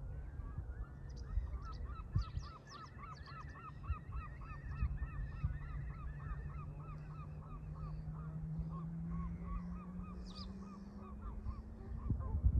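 Canada geese honking in a long, even series of calls, about three a second. Underneath, a low hum slowly rises in pitch.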